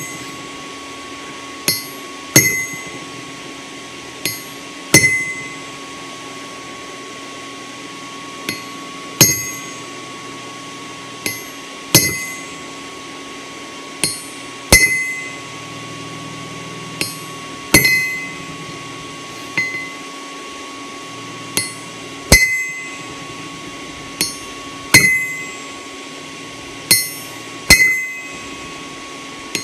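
Hammer blows at the anvil, punching eye sockets into hot steel with a ball-peen hammer. The strikes come in pairs, a lighter tap then a heavier ringing blow, about every two and a half seconds.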